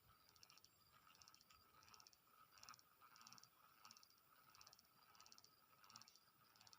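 Faint, regular chirping from a calling animal, one short buzzy chirp about every two-thirds of a second.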